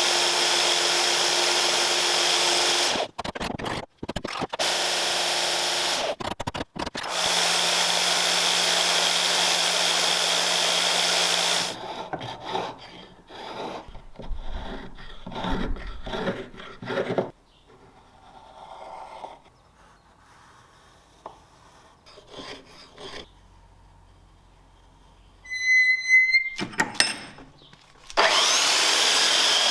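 Electric power tool running in several spells with short stops, then irregular scraping and knocking from hand work, and the tool spinning up again near the end.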